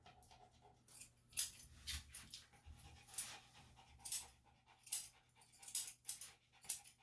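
Small Bichon–Shih Tzu mix dog breathing in short, hissy puffs, about one a second.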